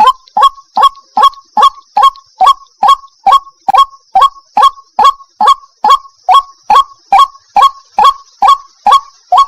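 White-breasted waterhen (ruak-ruak) calling: a steady, even series of short calls, a little over two a second, each dropping in pitch. This is the female's call to a male. A faint steady high hiss runs underneath.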